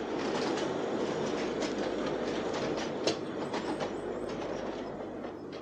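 A train running along the track: a steady rumble with irregular clicking from the wheels on the rails, and one sharper click about three seconds in.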